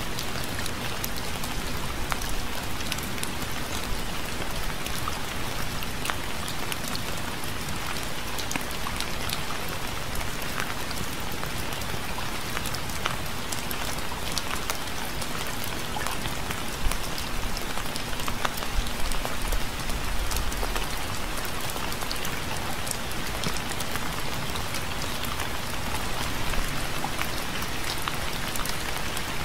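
Steady rain falling, an even hiss with many individual drops ticking and pattering through it. There is a brief low rumble a little past halfway.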